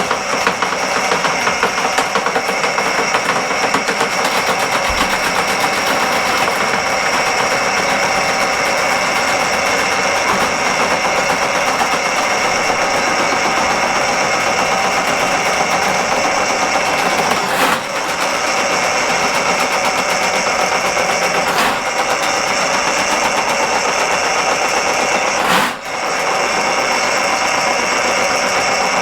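RIDGID K-50 sectional drain-cleaning machine running steadily as its electric motor spins the cable in a blocked floor drain, with a few brief dips in the sound in the second half.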